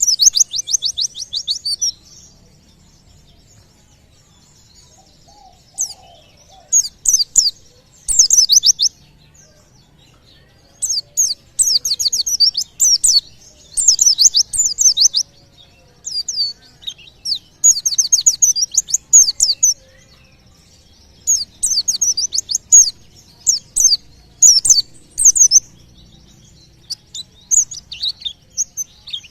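Pleci (white-eye) singing in fast, high, chattering bursts of rapid notes, each burst a second or two long with short pauses between and a longer quiet gap a couple of seconds in. This is the rapid 'nembak' style of song used as a lure to set other caged birds singing.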